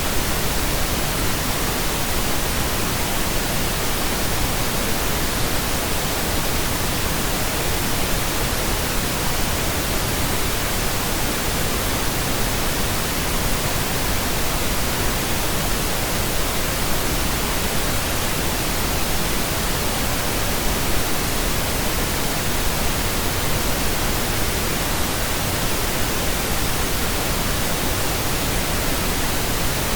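Steady pink noise: an even, unchanging hiss spread across the whole range from low rumble to high hiss, with no tones or rhythm.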